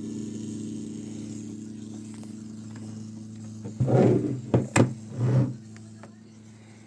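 Electric guitar through a Quad Cortex amp modeller: a held chord fading slowly, then three or four loud, harsh buzzing bursts with a sharp click, about four to five and a half seconds in, before it settles to a low hum.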